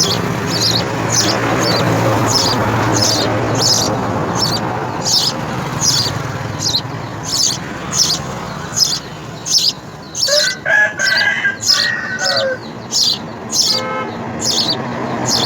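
A house sparrow chirping over and over, about two short high chirps a second. About ten seconds in a rooster crows once, a drawn-out call lasting a couple of seconds.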